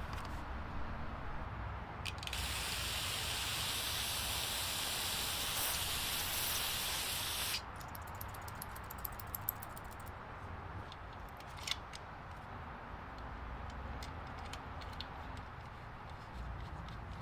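A pressurised spray hisses for about five seconds, starting about two seconds in and cutting off sharply, then scattered light clicks and taps.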